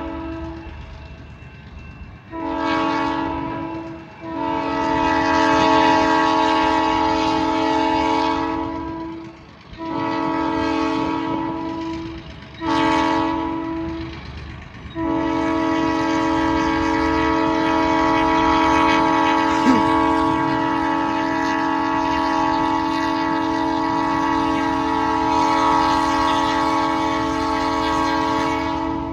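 Locomotive multi-chime air horn, an unusual non-standard horn, sounding a chord of several tones in a series of blasts: a short one about two seconds in, a long one, two shorter ones, then a long blast held from about the middle to the end.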